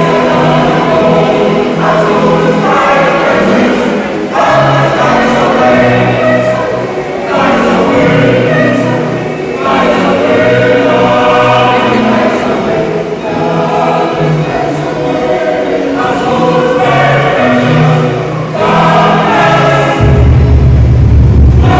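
A choir singing in parts, its phrases changing every second or two. Near the end a loud deep low tone comes in under the voices.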